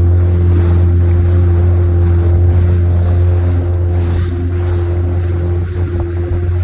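A boat's motor running at a steady speed, a constant low drone with a steady higher tone over it, with wind rushing on the microphone.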